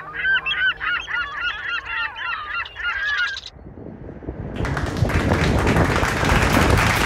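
A flock of geese honking, many calls overlapping, for about the first three and a half seconds. From about four and a half seconds in, a loud, even noise builds up and becomes the loudest sound.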